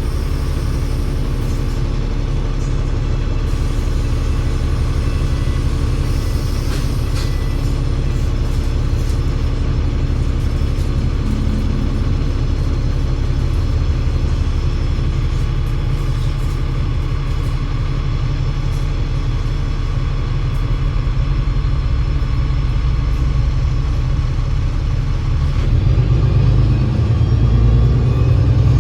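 Alexander Dennis Enviro500 MMC double-decker bus's diesel engine and Voith automatic gearbox running steadily while under way. Near the end the engine picks up and grows louder as the bus accelerates.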